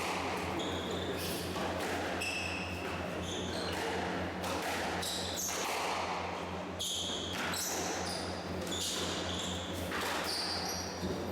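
A squash rally: the ball struck by rackets and hitting the walls about once a second, with players' shoes squeaking on the court floor between shots. A steady low electrical hum runs under it.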